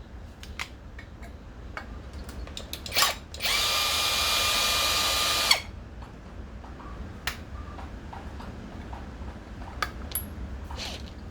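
Power drill running steadily for about two seconds before stopping abruptly, spinning out a screw holding the trimmer's ignition coil. Light clicks and a knock of parts being handled come before and after it.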